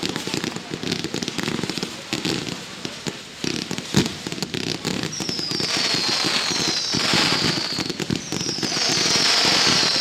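Fireworks display: dense crackling throughout, one sharp bang about four seconds in, then from about halfway several overlapping whistles, each gliding down in pitch.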